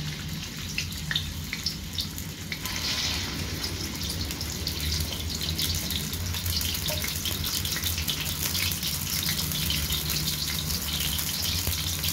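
Minced chicken sizzling and crackling in hot oil in a stainless steel kadai, the sizzle growing fuller a couple of seconds in, over a steady low hum.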